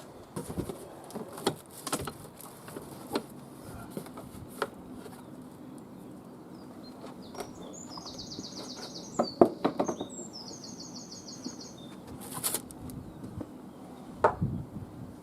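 Scattered knocks and clatters of packaging and parts being handled, the loudest a quick cluster about nine to ten seconds in. A small bird sings two fast trilled phrases in the background midway through.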